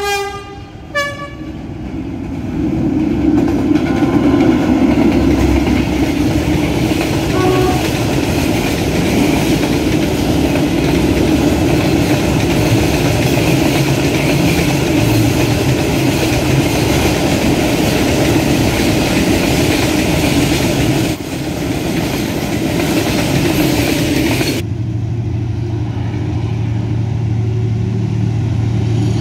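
A train horn gives short blasts at the start. About two seconds in, the train begins passing close by, its wheels and cars running steadily over the rails for some twenty seconds, with a faint short horn note partway through. Near the end the sound cuts off abruptly to a lower steady hum.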